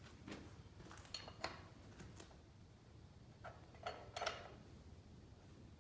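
Faint, scattered metal clinks and taps of tools or parts being handled, a few short strikes about a second apart with a slight ring.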